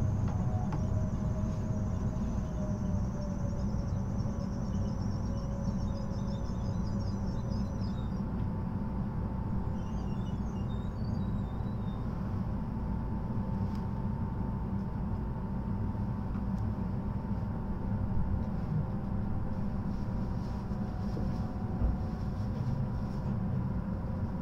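Inside an N700S Shinkansen car as the train comes to a stop at a station: a steady low rumble with a faint tone slowly falling over the first several seconds. Then a steady cabin hum while the train stands still.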